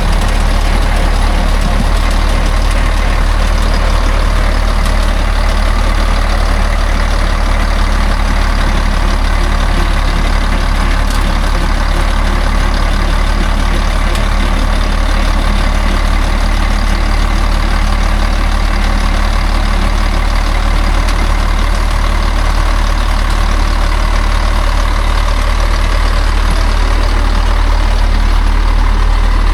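Heavy truck engine running steadily with an even, low drone and no change in revs.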